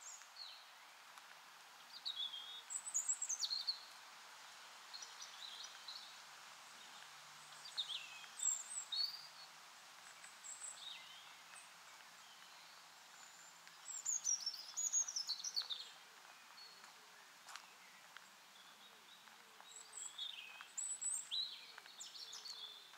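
Small songbirds calling, with quick, mostly falling chirps that come in clusters every few seconds, over a steady hiss.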